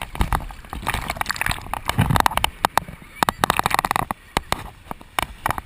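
Water sloshing and splashing close to the microphone, with many short sharp knocks and clicks.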